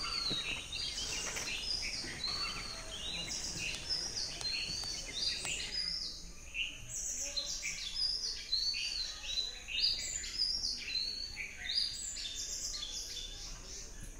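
Many birds calling at once, a dense chorus of quick repeated chirps and short arched whistles that overlap throughout.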